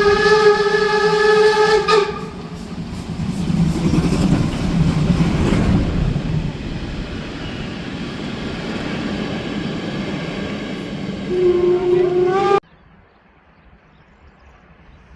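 Steam locomotive whistle blowing for about two seconds, then the rumble and hiss of the locomotive's steam for about ten seconds. A second, shorter whistle sounds near the end and cuts off suddenly.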